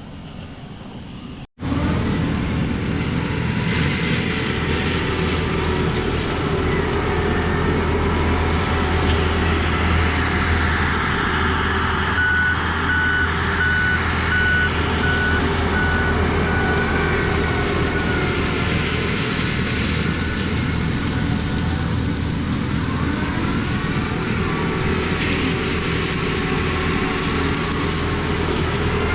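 Mini excavator running with its Rut brush cutter attachment: a loud, steady machine drone that cuts in suddenly about a second and a half in.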